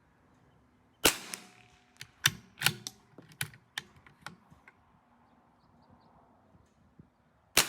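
Two shots from a CZ 457 AT-ONE .22 LR bolt-action rifle, about a second in and again near the end, with the bolt clicking as it is worked between them. The second shot went off a little premature.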